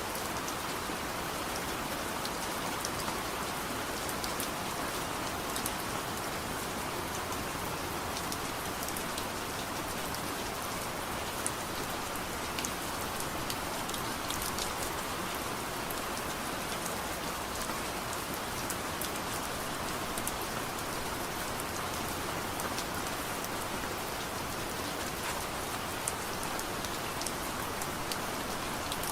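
Steady soft rain falling in an even hiss, with scattered faint sharp ticks through it.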